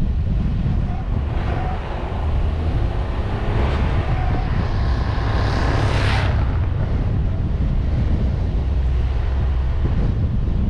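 Car driving a mountain pass road, with steady low wind and road rumble buffeting the microphone. A hissing rush builds from about a second and a half in and stops abruptly about six seconds in.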